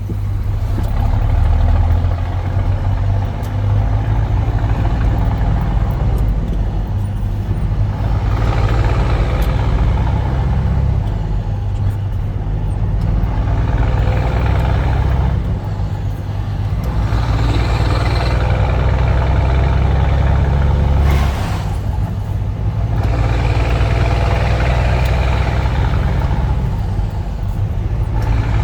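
Scania truck's diesel engine running steadily with a deep drone, pulling in direct gear, with road noise swelling and fading several times. About 21 seconds in a short sharp hiss is heard and the engine note drops for a moment.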